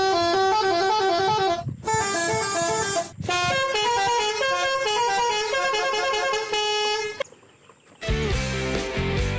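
A melodic multi-tone vehicle horn, telolet-style, playing a tune in three phrases. After a short pause near the end, a rock music track with guitar and heavy bass starts.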